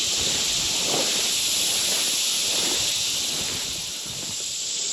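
Steady high-pitched chorus of field insects, with soft irregular footsteps swishing through grass.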